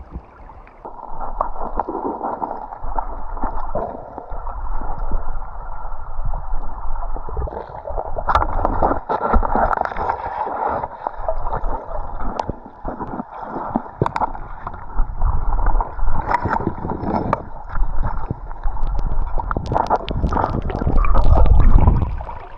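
Water gurgling and sloshing close to the microphone, with scattered clicks and knocks.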